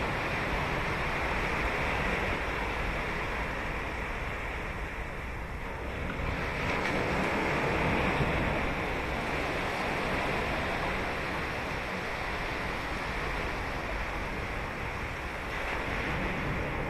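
Ocean surf breaking and washing onto a sandy beach, a continuous rush that swells a little about six to eight seconds in.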